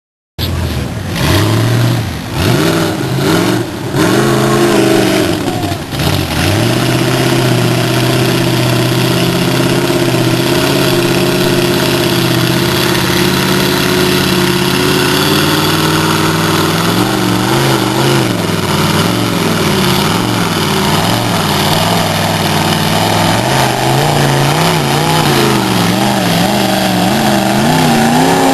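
Chevy pickup truck's engine running hard under load as it pushes through deep mud, held at high revs, with a few brief drops in the first few seconds and the revs rising and falling in the second half as the throttle is worked.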